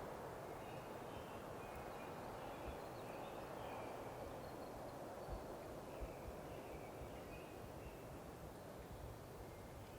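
Steady outdoor background noise with faint bird calls twice, each lasting a second or two, and a few short low bumps on the microphone.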